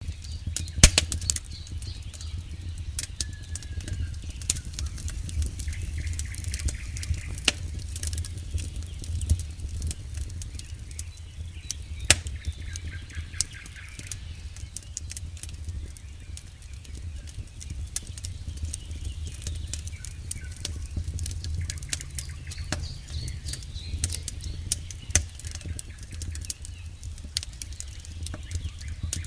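Campfire crackling, with scattered sharp pops and snaps over a steady low rumble of burning wood. The loudest pops come about a second in and again about twelve seconds in.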